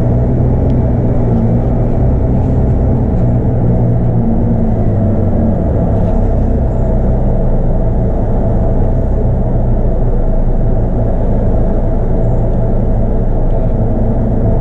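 Scania DC9 five-cylinder 8.9-litre diesel engine of a Scania K230UB bus running steadily, heard from on board, a loud, even low drone.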